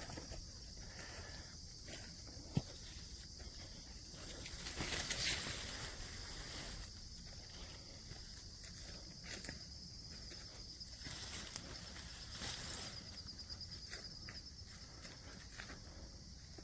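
Steady high-pitched chorus of insects, with a few faint clicks and rustles scattered through it.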